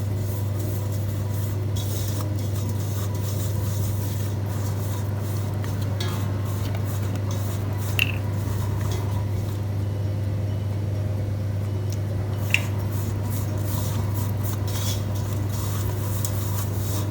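Spice masala paste with coconut oil being stirred and mixed in a bowl: soft scraping strokes, with two sharp clinks against the bowl about eight seconds in and again about four seconds later. A steady low hum runs underneath.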